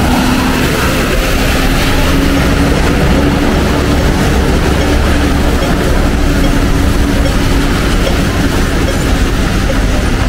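Train running: a loud, steady rumble with a low hum that rises slightly in pitch and fades out a little past the middle.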